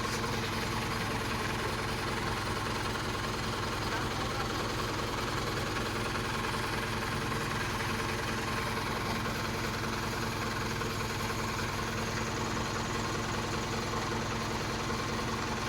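Truck engine running steadily at idle, an even, unchanging drone.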